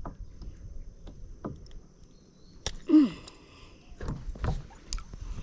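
Scattered knocks and clicks of gear and handling against the hull of a plastic fishing kayak while a hooked fish is brought aboard. The loudest knock comes a little under three seconds in, followed at once by a brief falling vocal grunt.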